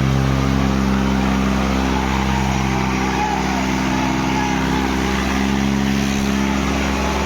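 Diesel tractor engines running hard under load in a tractor tug-of-war. The engine note is steady, then shifts in pitch about halfway through.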